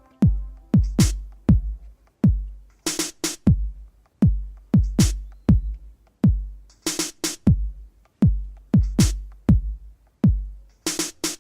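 Drum-machine beat playing on its own, with no vocals: deep kick drums that drop in pitch after each hit, and sharp snare or clap strikes, in an uneven hip-hop pattern.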